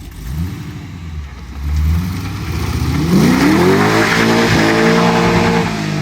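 6-litre V8 in a Mazda RX-7, blipped twice, then taking off. The revs climb steeply and hold high and steady, then ease off near the end.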